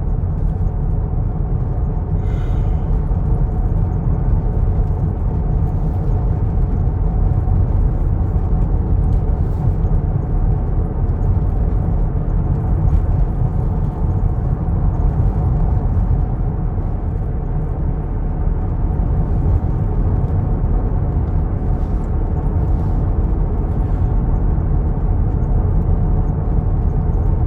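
Steady low rumble of a truck's engine and tyres heard from inside the cab while driving.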